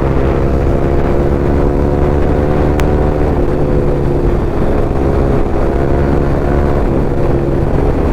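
Yamaha R15 V3's single-cylinder engine running through an Akrapovic exhaust with the dB killer removed, holding a fairly steady cruising note that dips slightly about three seconds in. Wind rumbles on the bare microphone underneath.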